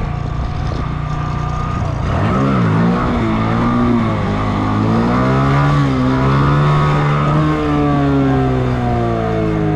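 Motorcycle engine under throttle, its pitch rising and falling several times from about two seconds in, then held high and sliding slowly down near the end: the throttle worked to keep a wheelie up.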